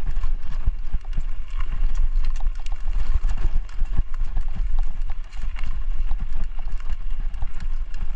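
Mountain bike rattling and knocking over rough trail ground, with many irregular knocks over a steady low rumble.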